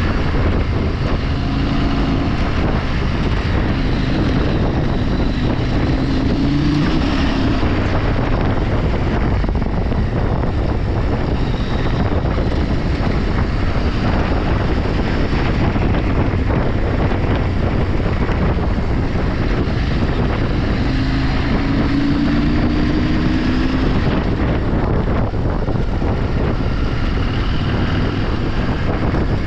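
Vehicle engine running under way, with heavy wind noise on the microphone; the engine note rises twice, a few seconds in and again past the middle.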